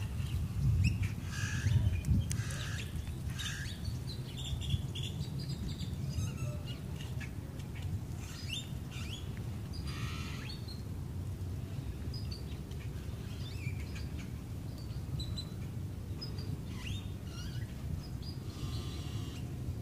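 Small birds chirping and calling again and again, with a steady low rumble underneath.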